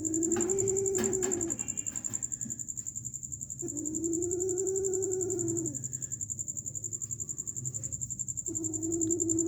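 A cat meowing long and drawn-out three times, about four seconds apart, each call rising and falling in pitch. A steady high whine and a low hum run underneath.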